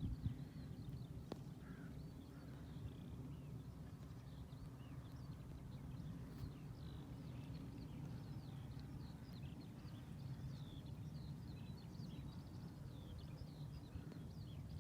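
Small birds chirping and trilling, many short calls throughout, over a steady low rumble.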